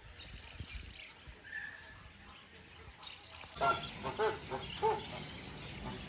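Birds calling: a high warbling chirp in the first second and again around three seconds in, then a run of about five loud, goose-like honks in quick succession.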